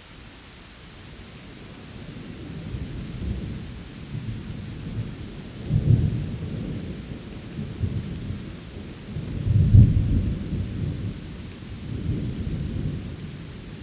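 Rain falling steadily, with thunder rolling in from about two seconds in and peaking twice, near the middle and again a few seconds later.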